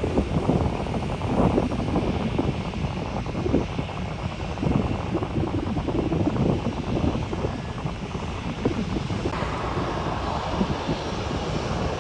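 Jet airliner engines rumbling steadily, with gusty flutter through the noise and a rise in higher-pitched engine noise about nine seconds in.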